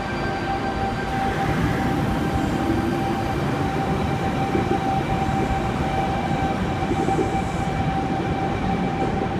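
Sydney Trains C-set electric train moving through the platform, most likely pulling out: a steady rumble of wheels and running gear with a constant high whine running through it.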